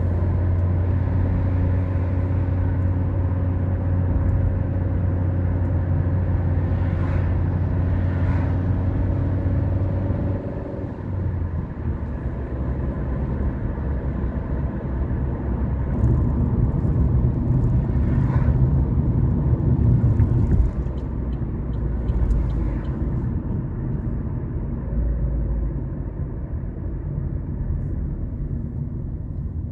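Car driving: a steady engine hum with road rumble. About ten seconds in the engine note changes and eases, then the rumble grows louder again for a few seconds before settling lower near the end.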